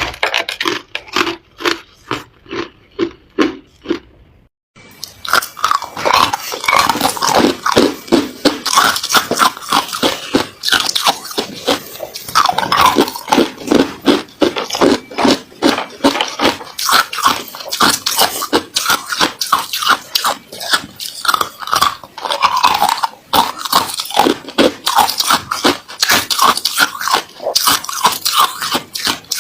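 Ice being bitten and chewed: a few seconds of softer, evenly paced crunches, a short break, then loud, dense, irregular crunching.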